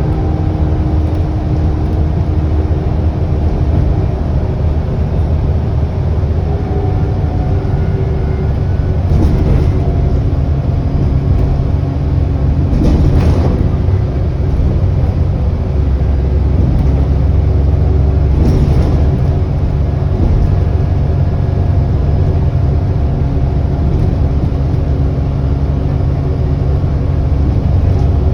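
ADL Enviro400 double-decker bus driving, heard from on board: a steady low engine and road rumble, with a whine that shifts in pitch and three brief knocks or rattles.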